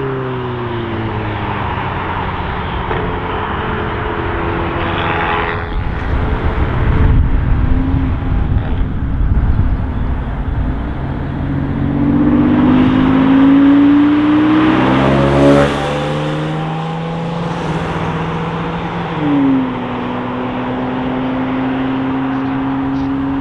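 Several performance cars pulling away and accelerating one after another, their engine notes rising and fading. Near the start a Seat Leon Cupra ST estate moves off, fading as it goes. The loudest stretch is midway, as a Porsche 911 Cabriolet accelerates away from a junction with a rising engine note.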